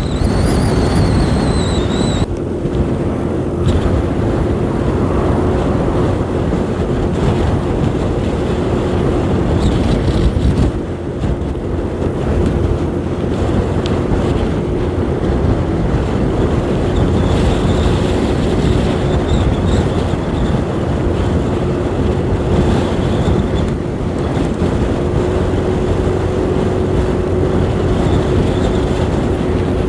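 125 cc learner motorbike riding along at a steady speed, its engine holding one even note under heavy wind rush.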